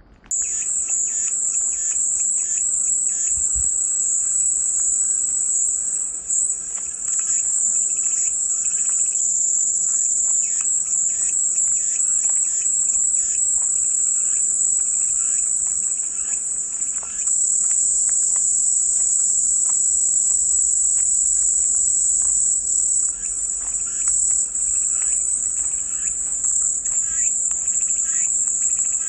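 Cicadas buzzing in a steady, high-pitched chorus that cuts in just after the start, with faint short chirps and ticks beneath it.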